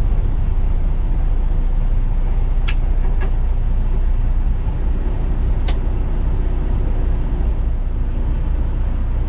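Semi truck's Detroit DD15 inline-six diesel running steadily under way, with a deep, even rumble of engine and road noise. A few sharp clicks sound over it, a few seconds apart.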